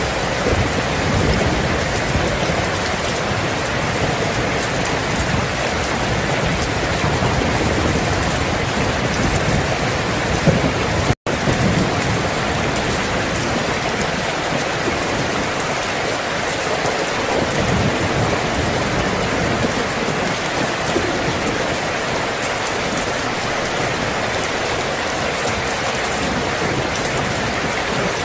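Steady heavy rain falling on surfaces, with a low thunder rumble through the first third that fades away. About eleven seconds in, the sound cuts out for a split second.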